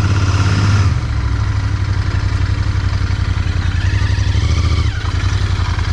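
Royal Enfield Continental GT 650's 648 cc parallel-twin engine running steadily at low revs, easing off slightly about a second in. A faint higher tone rises and falls briefly about four seconds in.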